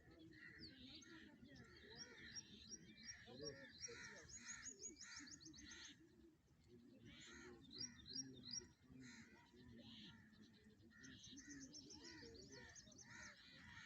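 Several small birds chirping and chattering together, calls overlapping, with quick runs of high repeated notes now and then.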